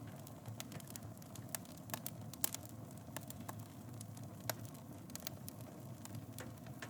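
Wood fire in a fireplace crackling: irregular pops and snaps over a low, steady rumble of burning, with the sharpest pop about two and a half seconds in.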